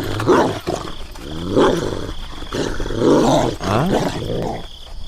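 Animal roaring, repeated about four times, each call starting low and rising in pitch.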